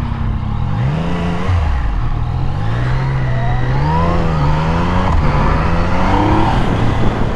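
Sport motorcycle engines accelerating, the pitch climbing and then dropping several times as they shift up through the gears.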